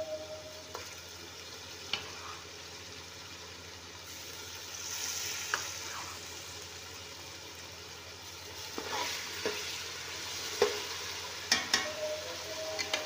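Onions and masala sizzling in oil in a steel pot as boiled beef pieces are added to fry, with a few sharp clicks and knocks scattered through.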